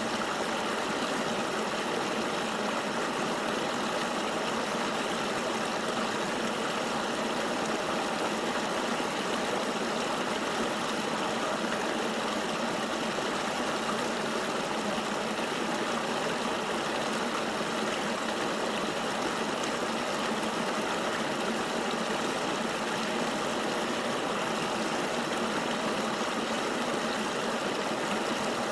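Flowing river water: a steady, even rushing sound with no breaks or changes.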